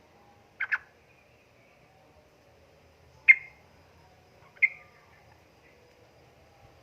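Yellow-vented bulbul giving short, sharp chirps: a quick double note about half a second in, then single notes at about three and four and a half seconds.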